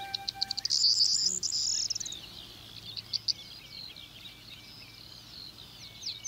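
A songbird singing rapid, high trills and chirps in bursts, with the last chord of the backing music fading out at the start.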